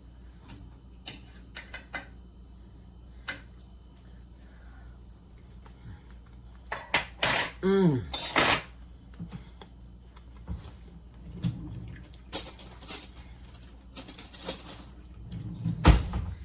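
A metal utensil clinking and scraping against a casserole dish as a hot serving is dished up: scattered light clicks, with louder clatter about halfway through and again near the end.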